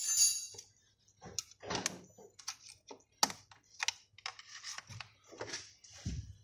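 Irregular light clicks, taps and scrapes of hand tools and metal parts being handled while the fuel injector rail is unbolted from a BMW M54 engine.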